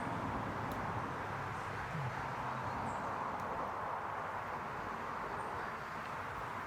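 Steady outdoor background noise, an even hiss with a few faint, short high chirps and ticks.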